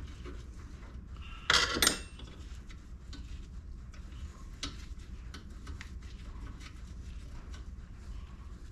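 Metal tools and parts being handled on a workbench: a loud double clank with a brief ring about a second and a half in, then light scattered clicks and taps.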